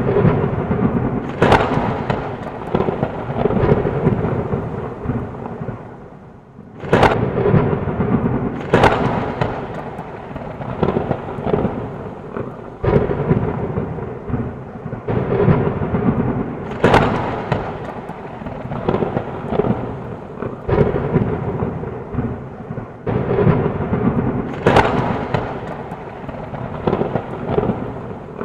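Thunderstorm: heavy rain under continual rolling thunder, with several sharp cracks of thunder between the rumbles and a brief lull about six seconds in.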